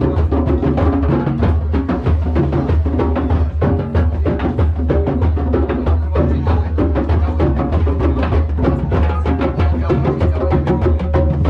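Drum circle: many drums beating together in a fast, steady, driving rhythm.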